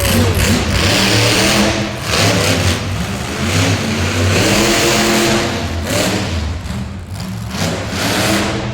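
Monster truck engine revving hard in repeated surges, its pitch rising and falling, with short easings between bursts.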